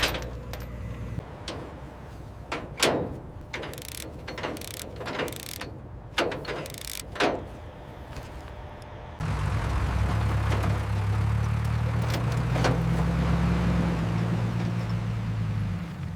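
Irregular sharp mechanical clicks and clanks. About nine seconds in, the sound switches abruptly to a steady, louder low hum.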